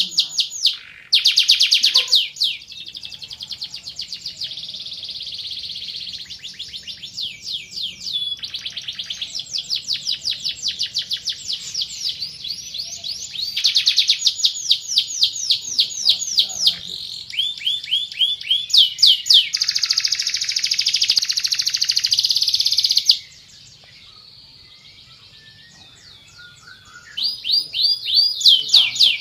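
Domestic canary singing a long song of fast trills: rapid runs of repeated sweeping notes, one tour after another, breaking off for a few seconds in the last quarter and then starting up again.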